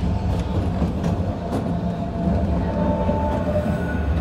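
A 762 mm narrow-gauge electric train heard from inside the car while running: a steady low rumble of wheels on rail, with a few faint clicks and a thin faint tone in the second half.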